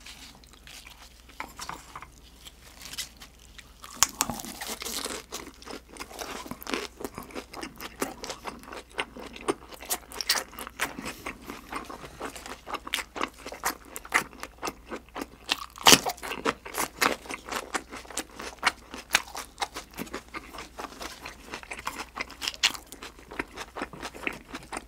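Close-miked chewing and crunching, with many short crisp crunches from about four seconds in and one sharper crunch about two-thirds through. A raw green chili pepper and lettuce-wrapped grilled freshwater eel are being bitten and chewed.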